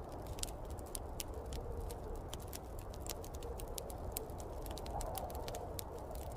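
Wood fire crackling, with frequent irregular pops and snaps over a steady low rumble. A faint, wavering howl of snowstorm wind rises and falls underneath.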